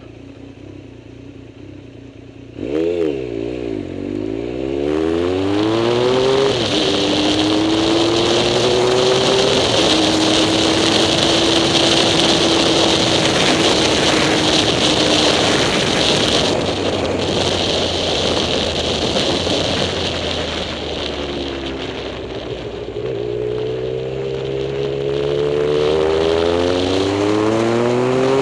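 Motor vehicle engine idling quietly, then accelerating hard about three seconds in, its pitch climbing and dropping back several times as it shifts up through the gears. It holds a steady cruise, eases off around twenty seconds in and accelerates through the gears again near the end, with a steady rush of wind and road noise throughout the drive.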